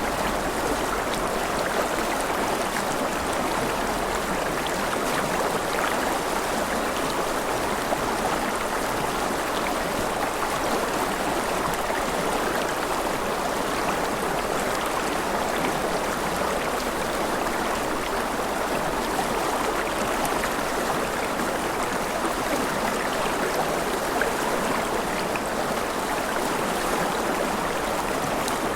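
Steady, unbroken rush of water, an even hiss that does not change.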